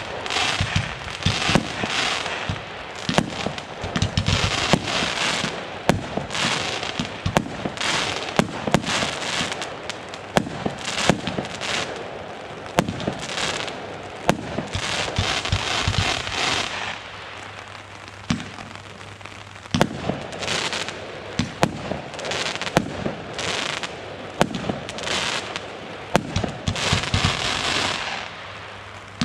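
A consumer firework battery firing shot after shot: sharp bangs, each followed by a burst of crackling, repeating every second or two.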